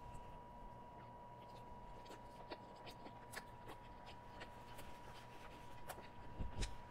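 Faint chewing with scattered soft mouth clicks as a fried cheese stick is eaten, over a steady faint tone and low hum. A soft low thump comes near the end.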